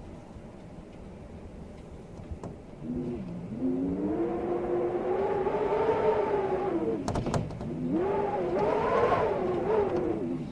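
Storm wind howling in gusts, its pitch wavering up and down, swelling louder from about three seconds in. A few sharp clicks come midway.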